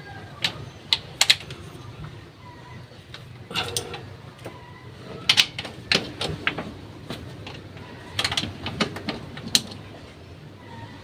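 Scattered sharp clicks and clinks of hand tools and metal parts being handled, irregular and unevenly spaced, over a faint steady low hum.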